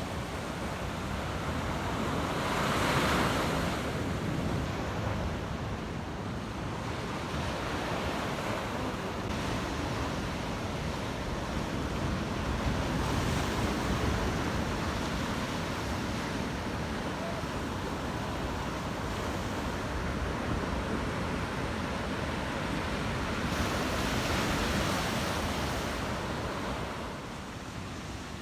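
Sea surf breaking on a beach, with wind. The surge swells and falls, loudest about three seconds in, around the middle and again near the end.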